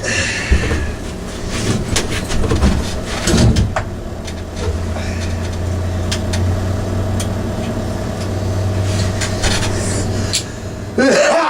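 Tools clicking and knocking on metal parts while a mini bike is taken apart, with a steady low hum from about four seconds in until near the end.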